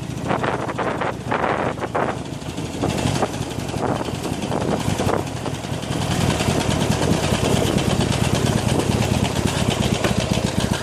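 Harley-Davidson Iron 883's air-cooled V-twin engine running at low speed on a rough track, with a few knocks in the first seconds. The engine grows louder about six seconds in.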